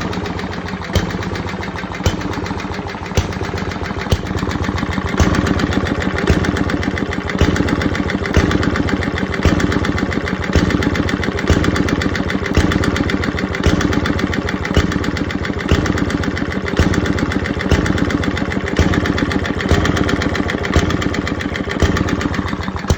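Briggs and Stratton model 14 engine converted to hit-and-miss running: a sharp firing bang about once a second, with steady mechanical clatter as it coasts between firings.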